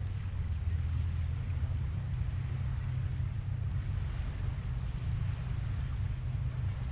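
Small ocean waves washing onto a sandy beach at low tide, over a steady low rumble; a wash of surf swells about four seconds in.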